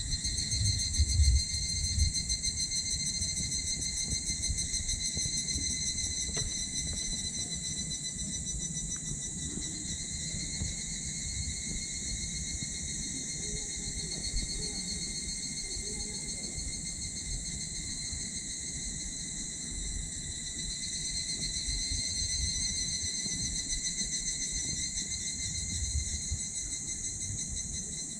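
A steady evening chorus of insects, crickets among them, chirring in fine rapid pulses. Beneath it are a low rumble and a few faint pops from a small wood fire in a titanium wood stove.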